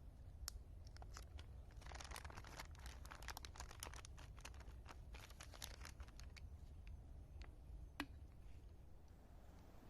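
Faint crinkling and clicking of something being handled, busiest in the middle, with a single sharper click about eight seconds in.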